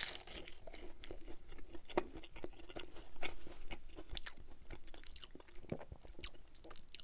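Close-miked chewing of a McDonald's chicken McNugget: a bite at the start, then a run of many small crunching clicks as it is chewed.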